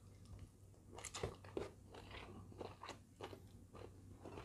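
A person chewing a handful of rice with salted fish and stir-fried vegetables, with faint crunches and short wet mouth clicks scattered through.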